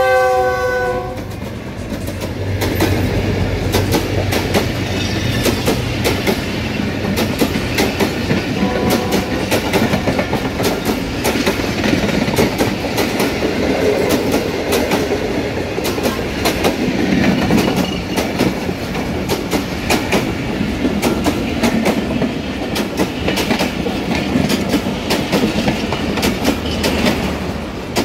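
Passenger train passing close at speed behind a diesel locomotive: the locomotive's horn ends about a second in, then the wheels of the coaches run over the rail joints in a steady clickety-clack with a constant rumble.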